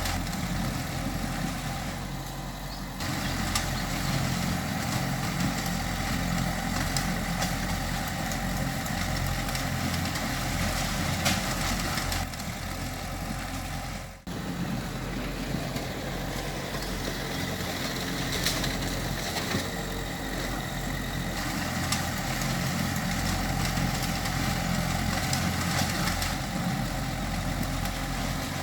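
Bulldozer's diesel engine running steadily, with a brief drop in sound about halfway through.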